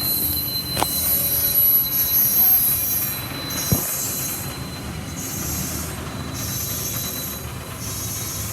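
Grain train hopper wagons rolling past with a steady high wheel squeal and repeated surges of hissing flange noise about once a second, over a low rumble. Two sharp knocks come about one second and four seconds in.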